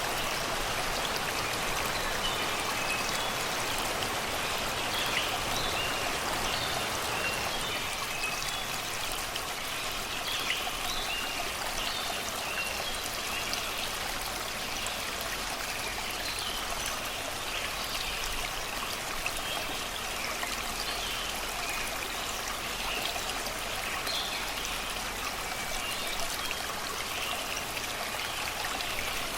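Shallow river rushing and babbling over rocks and stones, a steady sound of running water, with small forest birds chirping and singing throughout in short, scattered calls.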